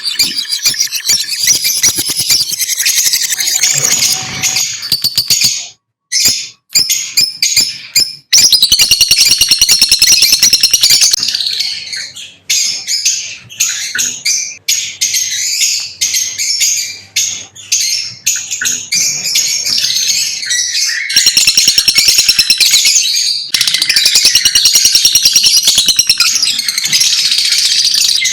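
Lovebirds chattering in a rapid stream of high-pitched chirps, breaking off into short silences for about two seconds some six seconds in.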